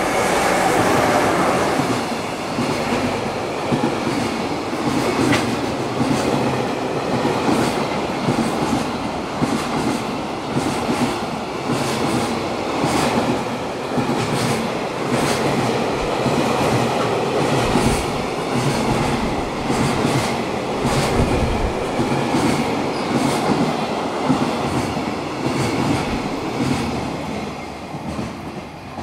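JR Freight EF66 electric locomotive and its freight wagons passing. There is a loud peak about a second in as the locomotive goes by, then a long run of rhythmic rail-joint clatter from the wagon wheels, tailing off near the end.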